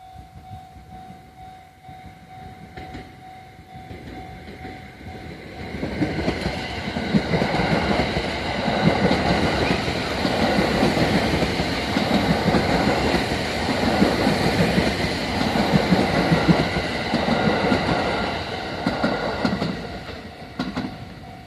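A Japanese level-crossing warning bell rings in a rapid steady pulse, then from about six seconds in the Sunrise Express sleeper train (a 285 series electric multiple unit) passes at reduced speed, its wheels clattering over the rail joints for about fourteen seconds. The train noise fades near the end and the crossing bell is heard again.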